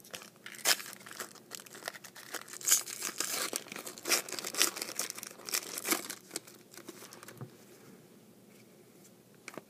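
A 2013 Rookies & Stars trading card pack wrapper being torn open and crinkled by hand, in irregular crackles and rustles that die down about six seconds in.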